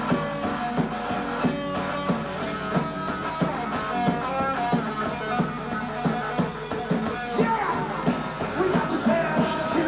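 A post-punk rock band playing live: guitar over a steady drumbeat in an instrumental passage, without vocals.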